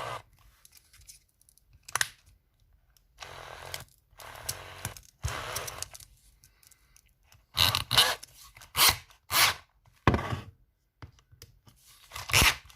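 Sandpaper rustling and scraping in short, irregular rasps as a small split-pin sanding tool wrapped in 120-grit paper is handled and fitted into a cordless drill's chuck.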